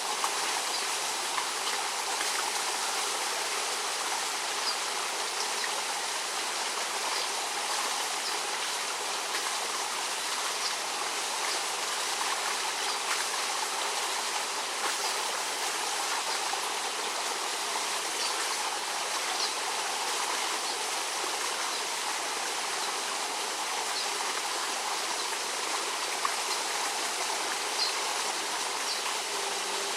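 Steady rush of flowing water, even and unbroken, with faint brief ticks now and then.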